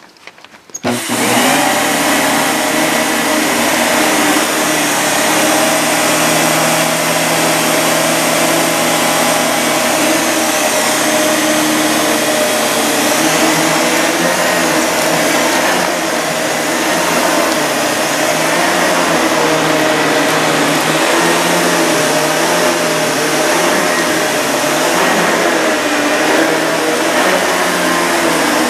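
Panasonic MC-CG885 vacuum cleaner switched on about a second in, then running steadily at full suction with a steady whine.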